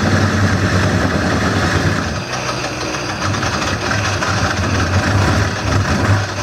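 Wood lathe running with a steady low hum while a gouge cuts into the spinning wooden bowl blank, a noisy cutting sound that eases briefly about two seconds in.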